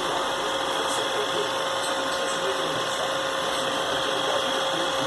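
iRobot Roomba robot vacuum running, its suction fan and brush motors whirring steadily with a constant whine.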